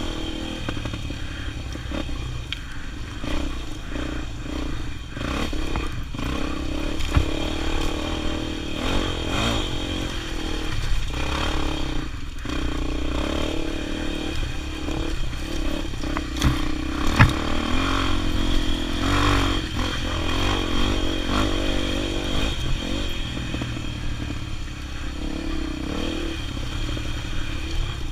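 Motorcycle engine running steadily under way, with scattered knocks and clatter throughout.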